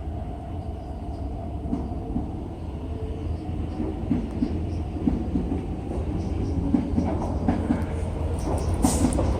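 An East Rail line R-train electric multiple unit moving along the platform, its wheels clicking irregularly over the track, gradually growing louder. A high hiss starts near the end.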